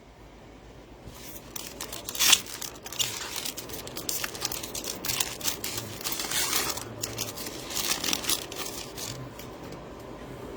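Crinkling and rustling of trading-card pack wrappers and cards being handled, with irregular crackles and a sharp crackle about two seconds in.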